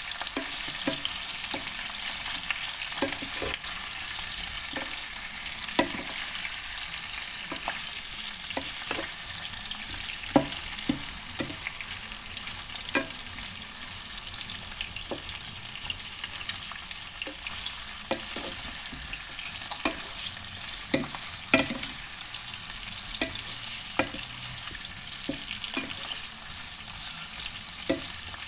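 Food frying in hot oil: a steady sizzle with frequent sharp pops and spatters at irregular intervals.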